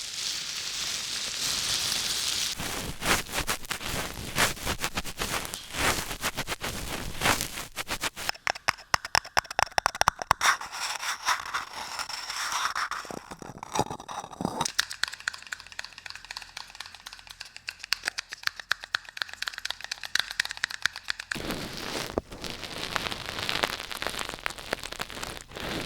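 Close-miked ASMR tapping and crackling: quick runs of sharp clicks and taps with some scraping, coming in uneven bursts.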